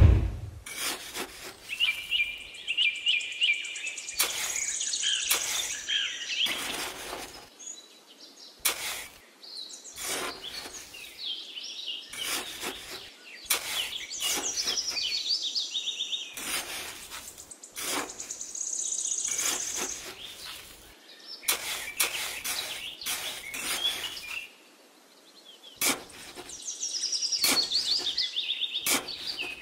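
Small birds chirping and trilling on and off, over irregular clicks and knocks.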